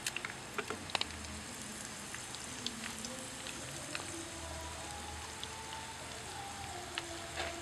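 Sun-dried field rat pieces frying in shallow oil in a pan: a steady sizzle with scattered pops and crackles, several sharper clicks in the first second.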